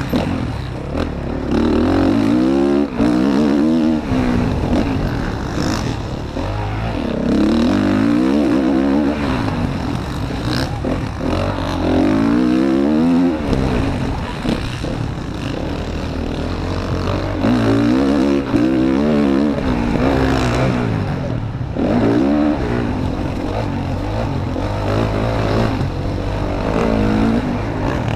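Motocross bike engine revving hard and rising in pitch several times as it pulls through the gears, then falling away between each pull, with steady wind rush over the onboard camera.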